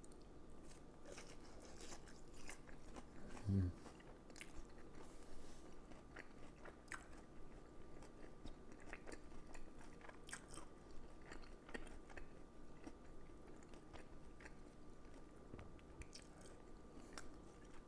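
Faint chewing and crunching of a crispy deep-fried pork cutlet (tonkatsu) with a wet-breadcrumb crust, many small scattered crunches. A brief low voiced hum about three and a half seconds in.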